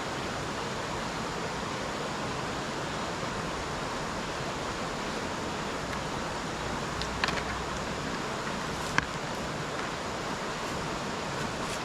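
Steady rushing of river water, broken by two sharp clinks of dishes being washed, the first about seven seconds in and the second about two seconds later.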